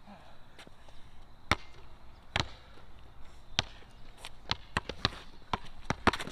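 Basketball being dribbled on a court: a string of sharp, separate bounces at uneven spacing, coming quicker in the last couple of seconds.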